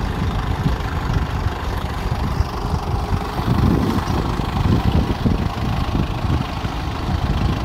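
Kubota M6040SU tractor's diesel engine running while the tractor is stuck in deep mud, a steady low engine rumble.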